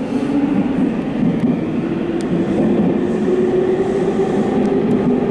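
Subway train running at speed, heard from its rear cab: a steady rumble of wheels on rail with a motor hum that settles onto a steady, slightly higher pitch about halfway through.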